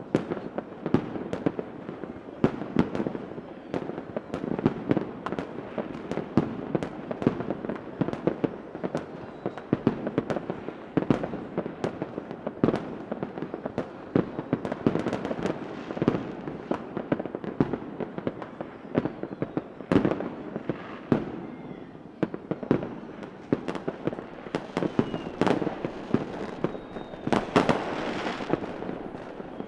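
Fireworks going off continuously: a dense run of overlapping bangs and pops, several a second, with a faint whistle or two near the end.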